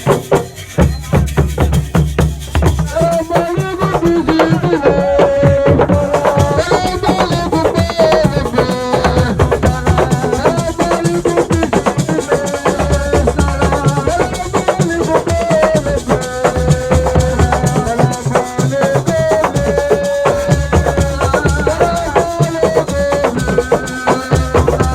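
Senegalese assiko music: a melodic lead of held, stepping notes over drums, shaker rattles and a heavy bass line, loud throughout. The opening second or two is mostly percussion before the melody comes in.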